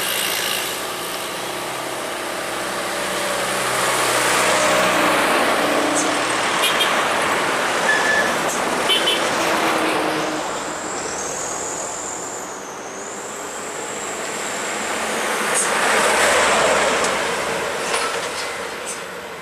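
Heavy diesel trucks and other traffic passing on an uphill highway, the noise swelling as each goes by, loudest about a third of the way in and again near the end. A thin high whistle sounds through the middle.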